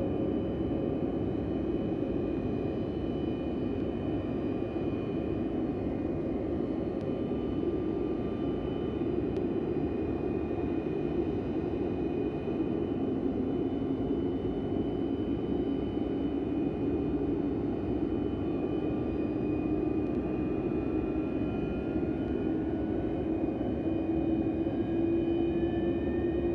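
Antonov An-124 freighter's Progress D-18T turbofan engines during a cold start: a steady roar with a whine that slowly rises in pitch over the second half as an engine spools up.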